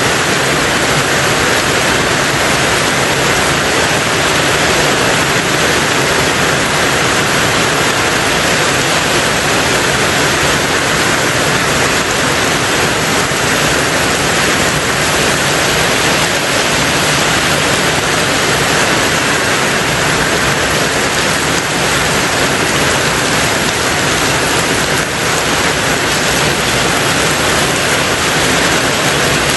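Steady heavy rain drumming on a tin roof, a dense even hiss of drops without pauses.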